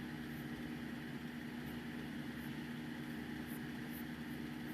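Steady low mechanical hum with a few held low tones, with a few faint, very short high ticks scattered through it.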